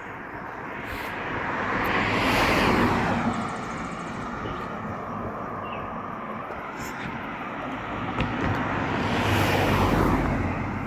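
Two road vehicles passing by, one about two to three seconds in and another near the end. Each is a rush of tyre and engine noise that builds and then fades.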